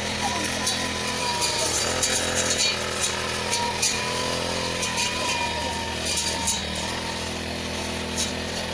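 Engine of a grass-cutting machine running steadily, with repeated sharp ticks.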